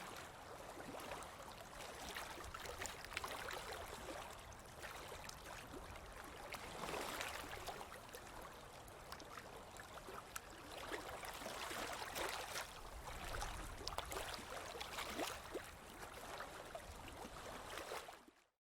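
Running water with many small splashes, swelling and easing, that cuts off just before the end.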